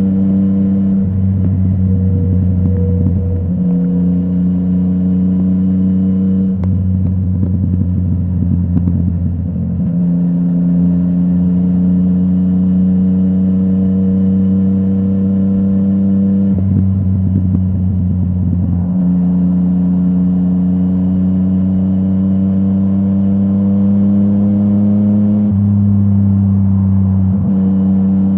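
Yamaha MT-09's inline three-cylinder engine through a full Akrapovic exhaust, running on the move. Its note rises slowly and changes suddenly several times along the way.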